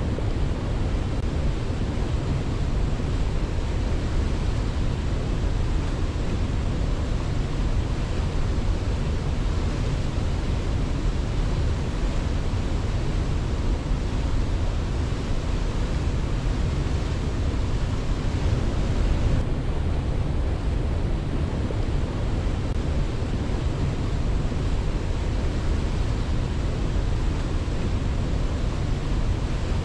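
Waterfall: a steady, unbroken rush of falling water, heaviest in the low end, with no birdsong or other events over it.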